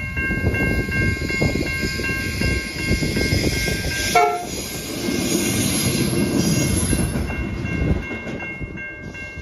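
Level crossing bells ringing steadily while a Pacific National diesel freight locomotive approaches and passes with a heavy low rumble. A short train horn note sounds about four seconds in.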